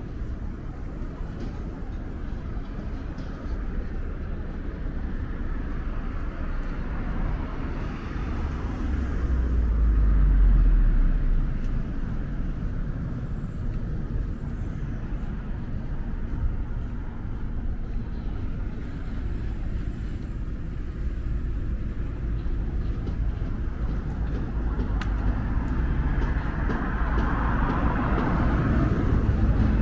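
Outdoor city street ambience with a steady low rumble of road traffic. It swells louder about ten seconds in, and a vehicle's tyre and engine noise builds near the end.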